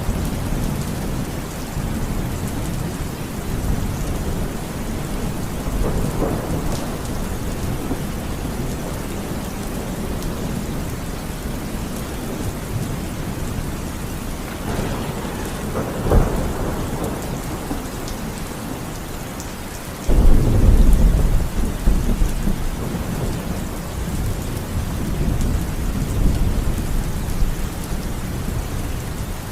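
Steady rain falling through a thunderstorm, with thunder rumbling several times. The loudest roll of thunder starts suddenly about two-thirds of the way through and rumbles on for several seconds.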